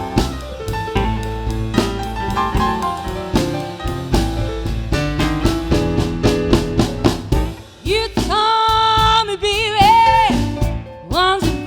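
Live blues band playing with drum kit, piano, bass and guitar; about eight seconds in a singer comes in with long held notes that waver with vibrato.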